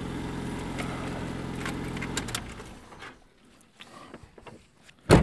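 Car engine idling steadily, just jump-started from a portable jump-starter pack on its flat battery, then switched off about two seconds in and falling quiet. A single loud thump near the end.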